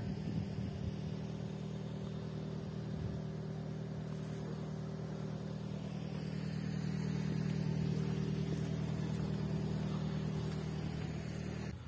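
A vehicle engine idling, a steady low hum that grows a little louder past the middle and cuts off suddenly near the end.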